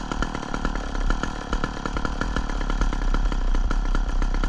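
Gas chainsaw running steadily, its two-stroke engine firing in a fast even rhythm.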